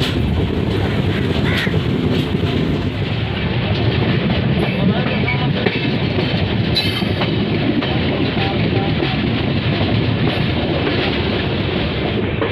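Steady running noise of a passenger train in motion, heard from the open doorway of a coach: wheels rumbling on the rails, with a rattle and a few faint knocks.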